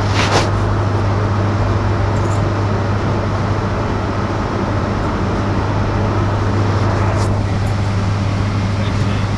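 Cabin noise inside a moving electric bus: a steady low hum over road noise, with a couple of brief clicks, one near the start and one about seven seconds in.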